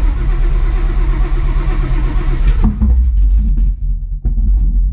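Supercharged, cammed Ford Coyote 5.0 V8 with a Whipple supercharger running loud and rowdy just after firing, then turning rough and uneven about two and a half seconds in and fading out as it stumbles. The engine will not keep running; the owner thinks it needs more fuel and that the ignition timing may be off.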